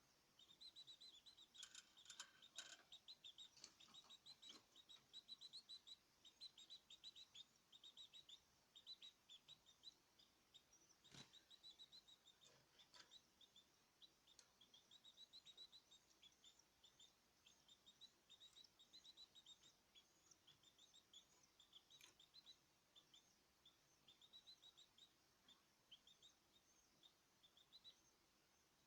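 Caged songbirds chirping and twittering faintly and without pause, a fast run of short, high notes, with a few soft knocks.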